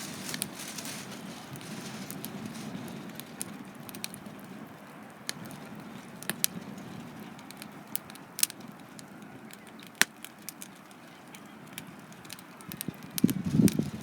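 Wood campfire burning, crackling with scattered sharp pops over a low steady rush of flame, with a few duller knocks near the end.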